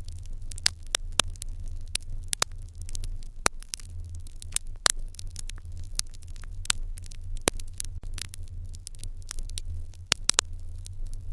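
Wood fire crackling in an irori hearth: irregular sharp pops and snaps, several a second, some louder than others, over a steady low rumble.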